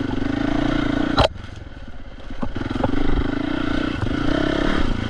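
Dirt bike engine running under throttle on a trail ride, with a sharp knock about a second in. The engine then eases off, and the throttle comes back on and its pitch rises again.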